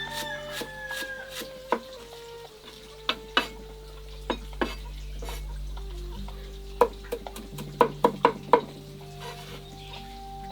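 A cooking utensil stirring and clinking against a pan as food fries, with a quick run of sharper clinks about eight seconds in. Soft background music holds long notes underneath.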